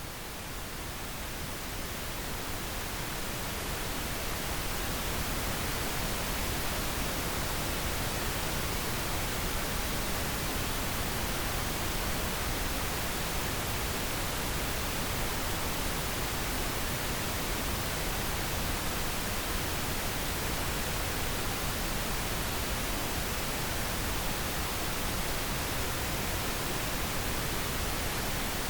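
Steady pink noise, an even hiss spread across all pitches, fading in over the first few seconds and then holding at a constant level.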